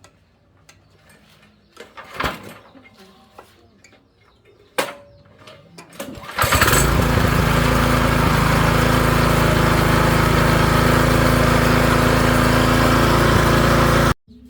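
A few knocks, then a small engine starts about six seconds in and runs loudly and steadily at an even pitch, cutting off suddenly near the end.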